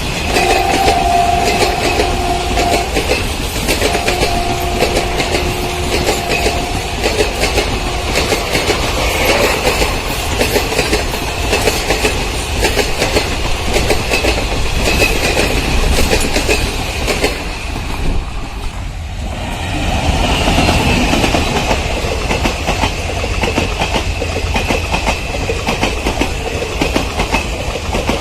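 Train wheels clicking rhythmically over rail joints as a train passes at speed. Two long steady horn blasts sound in the first seven seconds, and the sound dips briefly about two-thirds of the way through.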